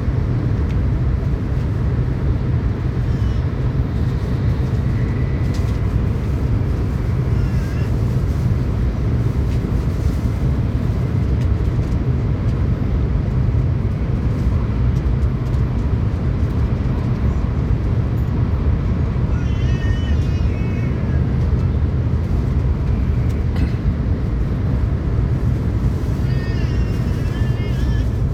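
Steady low rumble of a Tokaido Shinkansen passenger car running at speed, heard from inside the cabin. Faint wavering high sounds come and go briefly about two-thirds of the way in and again near the end.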